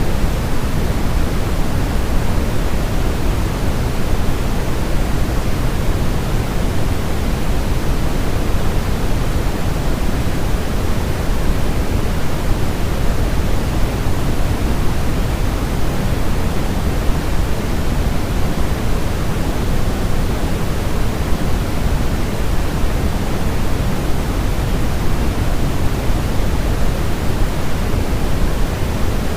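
Steady, unchanging sleep-aid noise for babies, sold as white noise but heavier in the lows than in the highs, like pink noise: an even rushing hiss with no rhythm or breaks.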